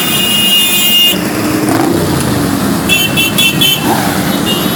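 A procession of motorcycles riding past with engines running, and horns honking: a held toot at the start, then a quick series of short toots about three seconds in.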